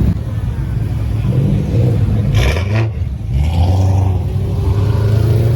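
Car engine running and revving, its pitch rising and falling, with a short rush of noise about two and a half seconds in.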